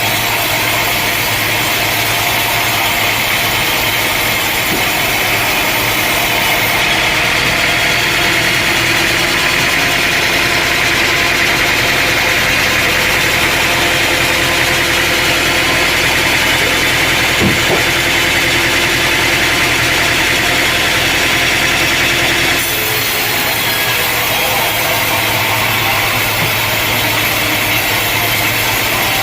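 Sawmill running: an engine running steadily while a saw blade cuts through a log. The sound changes abruptly about a quarter of the way in and again about three quarters of the way through.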